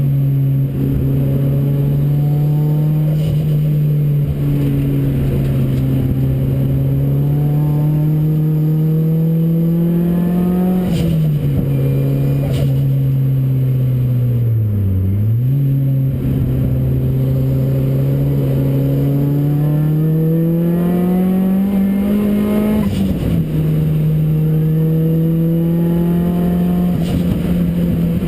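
Ford Racing Puma's modified Ford Focus RS engine running under load, heard from on board. The revs climb slowly through each gear, with gear changes about 11 and 23 seconds in and a short drop and recovery in revs around 15 seconds.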